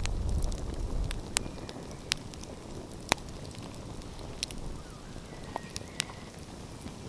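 Wood fire crackling, with sharp pops at irregular intervals, a few of them louder than the rest. A low rumble fades out about a second in.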